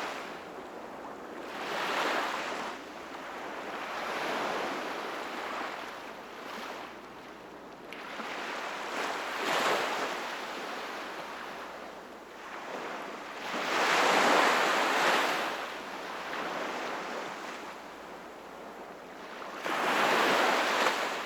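Sea waves breaking and washing in, in surges every few seconds, the loudest about two-thirds of the way through.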